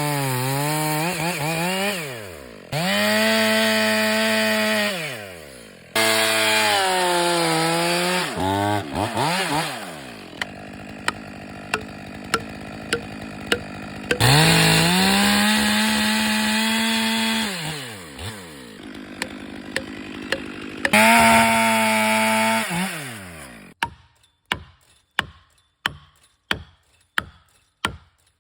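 Chainsaw felling a small tree: the engine revs up to full speed for several cuts and drops back to idle between them. Near the end the saw stops and a run of sharp knocks follows, about two a second, from felling wedges being hammered into the cut.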